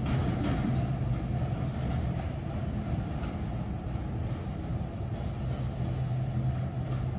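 NJ Transit electric commuter train pulling away: a steady low hum and the rumble of wheels on rail, slowly fading as it draws off.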